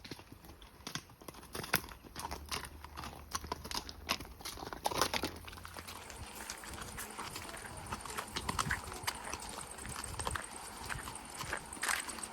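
Horses' hooves clip-clopping as horses are ridden at a walk, an irregular run of hoof strikes.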